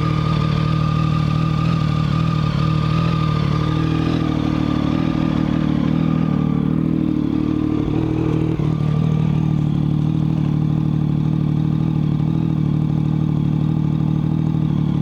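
A 2012 Triumph Speed Triple's 1050 cc three-cylinder engine idling steadily while warming up, heard through shortened Mivv Suono slip-on exhausts.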